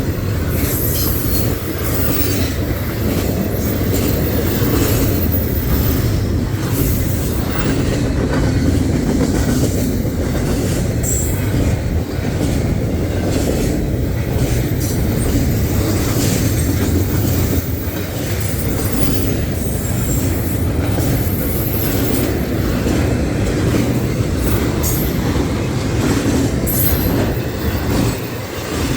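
Norfolk Southern train rolling past at close range, a steady heavy rumble with wheels clacking over rail joints. Brief high-pitched wheel squeals come a few times.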